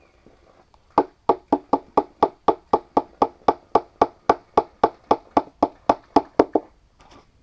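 Bamboo being struck over and over with a tool, even knocks at about four a second, starting about a second in and stopping shortly before the end.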